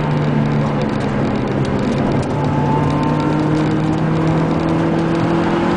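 Car engine running steadily, heard from inside the cabin over road noise, its pitch climbing slowly in the second half.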